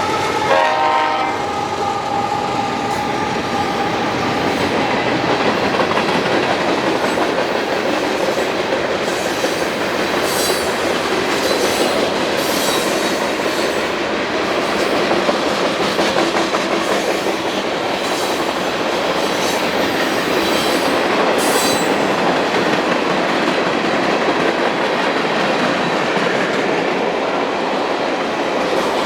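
A freight train's horn sounding and stopping about a second in, then the manifest's freight cars rolling past with a steady rumble of steel wheels on the rails and some short clicking and clatter.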